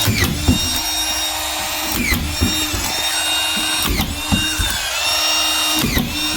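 Collated drywall screw gun running with a steady motor whine. Its pitch dips with a click about every two seconds as each screw is driven into the plasterboard.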